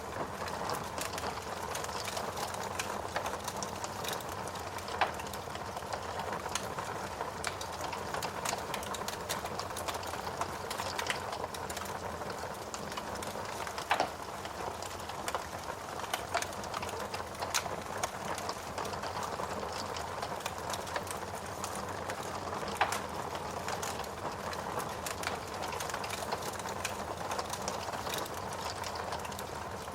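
Fire burning in a fireplace, crackling steadily with many small irregular clicks over a soft hiss, and a few louder pops scattered through.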